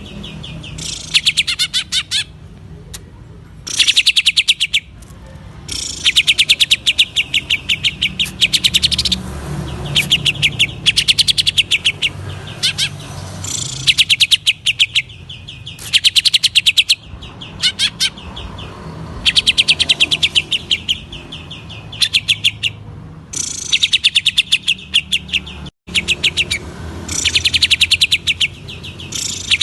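Green leafbird (cucak ijo) singing in its full 'gacor' song: repeated bursts, each a second or two long, of very rapid high chattering notes with short pauses between.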